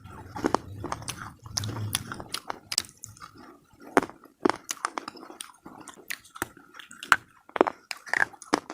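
Close-miked biting and chewing of slate pieces (slate pencils, cubes and bars): a run of irregular, sharp crunches, a dozen or so.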